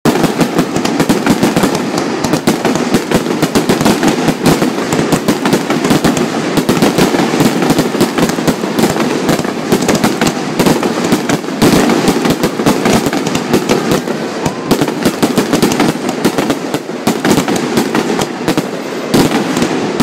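Aerial fireworks bursting in a dense, continuous barrage: a rapid run of bangs and crackles, with a few heavier booms standing out among them.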